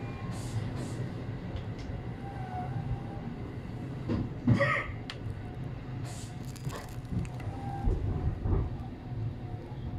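Tobu 850 series electric train running, heard from on board: a steady low rumble of wheels and running gear, with a few short hisses of air and a sharp knock with a brief ring about halfway through.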